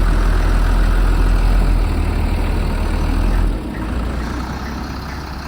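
Heavy diesel engines of an excavator and a mud-stuck septic truck running under load as the excavator pulls the truck free; the low rumble drops in level about three and a half seconds in.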